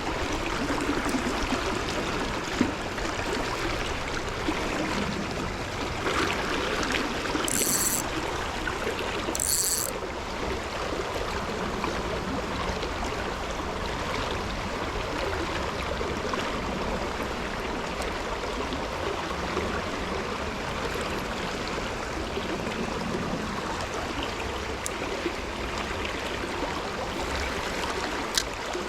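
Running stream water, a steady rushing. Two brief high-pitched rasps break in, about eight and ten seconds in.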